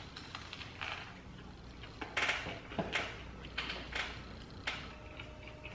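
Chewing a big mouthful of soggy barbecue chicken sandwich: a handful of soft, irregular wet chewing and smacking sounds.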